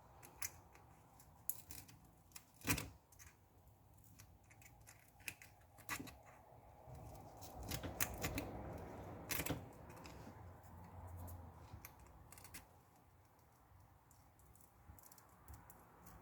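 Faint, irregular clicks and scraping of a hand tool working over an iPad's bare frame, cleaning it after the cracked screen was removed. The sharpest click comes almost three seconds in, and a longer scrape runs from about seven to ten seconds in.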